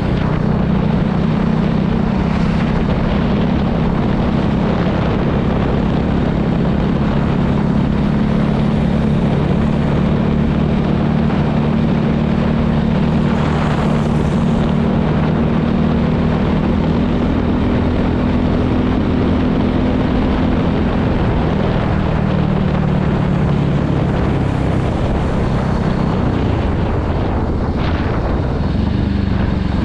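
Voge 300 motorcycle's single-cylinder engine running steadily at cruising speed, with wind rushing over the microphone. The engine note shifts a little about two-thirds of the way through.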